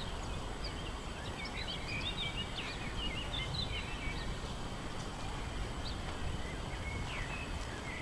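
Small birds chirping and twittering in quick short calls, busiest in the first few seconds, over a steady low outdoor rumble.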